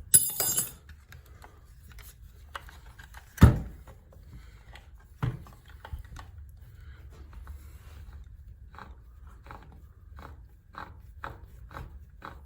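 Hand-tool work on a metal headlight assembly: a high metallic clink, then two sharp knocks. From about nine seconds in come regular clicks, about two a second, as a fastener is turned with a ratchet wrench.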